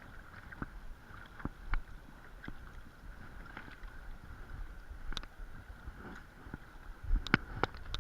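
Creek water running steadily, with wind rumbling on the microphone and scattered sharp clicks and taps, which come louder and closer together near the end.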